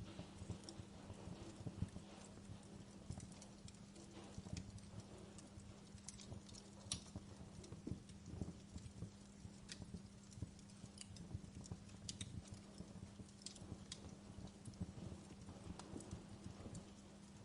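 Wood fire crackling in a fireplace: faint, irregular snaps and pops, over a steady low hum.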